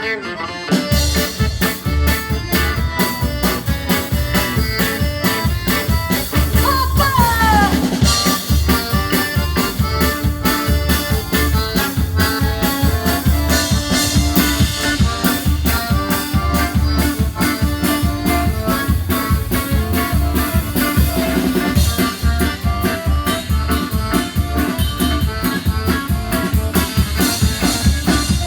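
Live folk band playing an instrumental dance tune inspired by Jewish music, led by accordion over guitar and a drum kit keeping a steady beat. A quick run of falling notes sounds about seven seconds in.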